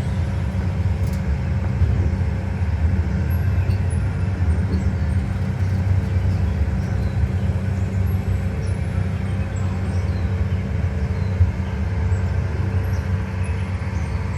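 Amusement-park ride train running steadily, heard from on board: a continuous low rumble from its engine and wheels on the track.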